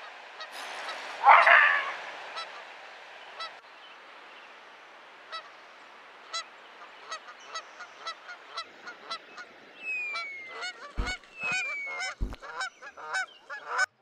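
Repeated honking bird calls, sparse at first and then coming thick and fast over the last few seconds, over a steady background hiss. A brief loud noise, the loudest thing here, comes about a second in, and two low thumps come near the end.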